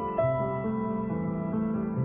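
Soft background music with piano-like keyboard notes and held chords, changing note about every half second.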